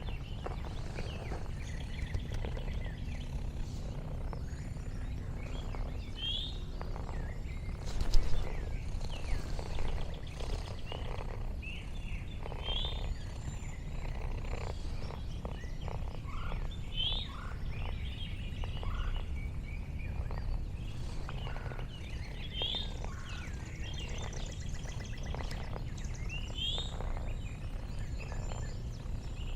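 A cat purring steadily close to the microphone, a low continuous rumble. Behind it a bird gives a short rising chirp every few seconds. About eight seconds in there is a brief loud knock.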